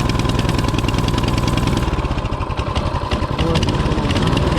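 Mini bike engine running steadily; about two seconds in its note changes and falls off a little, then picks up again near the end.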